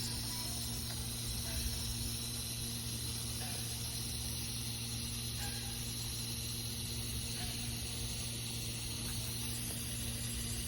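Steady low hum with a constant high hiss, unchanging throughout.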